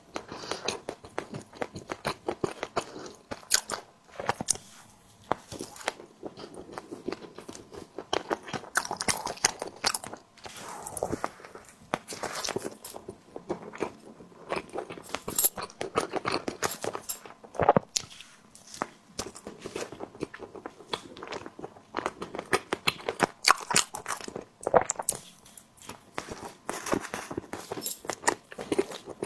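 Close-miked eating: a person biting into and chewing a tiger skin dessert, with dense, irregular small clicks and smacks from the mouth.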